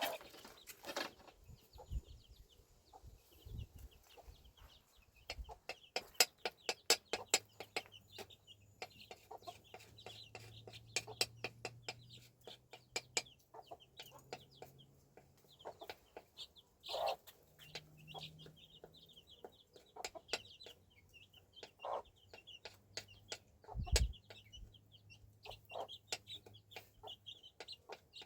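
Chickens clucking, with many short high chirps throughout. A quick run of sharp taps or clicks comes from about six seconds in to about fourteen seconds, with a few louder knocks later.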